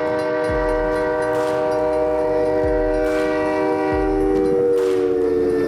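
Train's multi-tone air horn held as one long chord, dropping slightly in pitch about five seconds in. Faint regular thumps sound under it.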